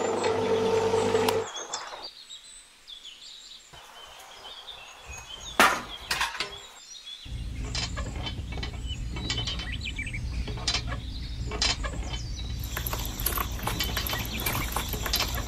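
Miniature model cement mixer: its small electric motor hums and stops about a second and a half in. After a quieter stretch with a few clicks, a steady low hum returns about seven seconds in under rapid clicking of the plastic gears as the tilt handwheel is turned and the drum tips out wet mortar.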